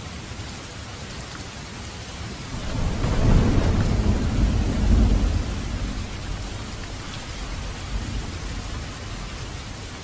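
Steady rain falling, with a roll of thunder that swells about two and a half seconds in, rumbles low for a few seconds and dies away.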